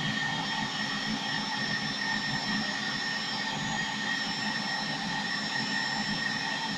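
Handheld hair dryer running steadily, a rush of air with a fixed whine from its motor, blowing hot air onto a plastic headlight bulb socket to soften it.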